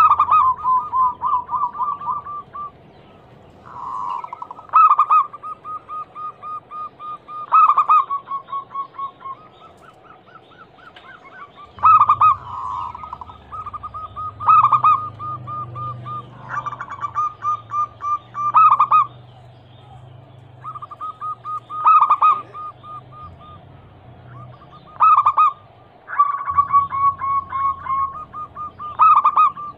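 Zebra doves (perkutut) cooing phrase after phrase, every few seconds. Each phrase is a loud opening note followed by a quick run of short, evenly spaced notes, and some phrases overlap.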